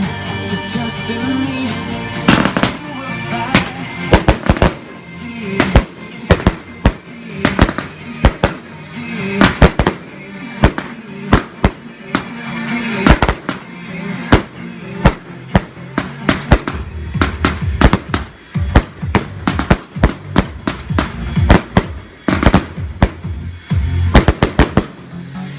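Fireworks going off in a rapid, irregular run of sharp bangs and crackles, several a second, starting about two seconds in. Music plays before they start and comes back near the end.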